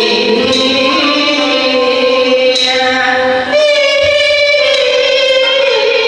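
Teochew opera music: a sung line of long held notes over instrumental accompaniment, with a new phrase starting about halfway through.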